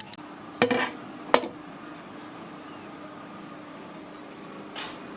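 Two sharp metallic clanks of metal striking metal, less than a second apart, with a ringing tone lingering after them; a short soft hiss near the end.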